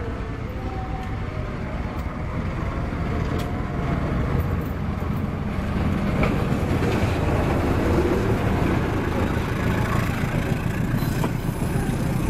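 A CC206 diesel-electric locomotive hauling a passenger train approaches and passes close by, its engine rumble growing louder about halfway through. By the end the passenger carriages are rolling past on the rails.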